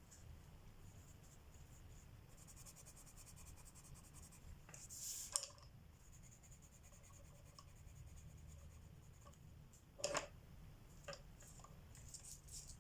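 Colored pencil scratching on paper in quick shading strokes, with a few light taps, the sharpest about ten seconds in. Faint.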